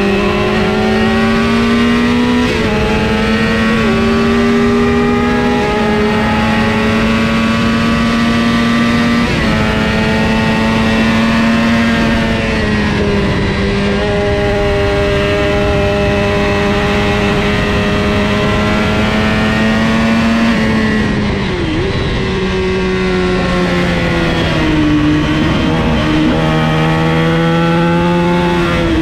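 Engine of a 400 cc supersport racing motorcycle at full throttle, recorded onboard. The pitch climbs and steps down with each quick upshift, holds high and steady at speed for several seconds, then drops sharply about 21 seconds in as the bike brakes and downshifts, before pulling up through the revs again.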